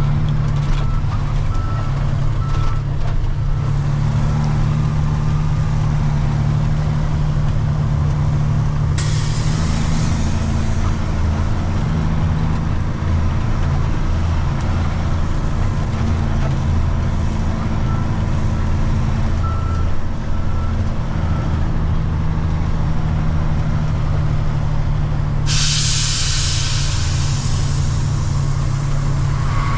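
Water truck's diesel engine running steadily, with two long hisses of air from the air brakes, about nine seconds in and near the end, each cutting in suddenly and then fading.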